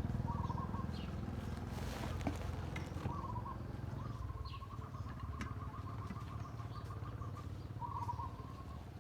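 Small birds chirping in short repeated phrases, one giving a rapid trill of several seconds in the middle. Under them, the low rumble of a motorcycle engine fades away.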